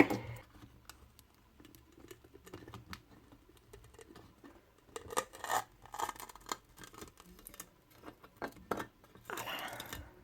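Tools and materials being handled and moved about on a work surface: scattered clicks, taps and scraping rustles, busiest about five to six seconds in, with a longer rustle near the end.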